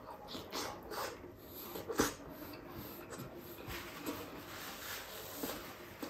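Close-miked chewing and lip-smacking of a person eating, with irregular wet mouth noises and a sharp click about two seconds in.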